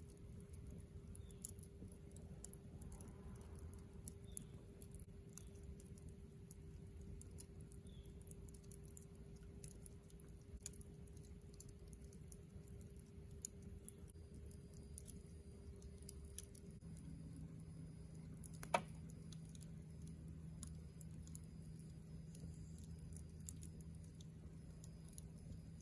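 Wood campfire crackling faintly, with sparse irregular pops and one sharper pop near the end.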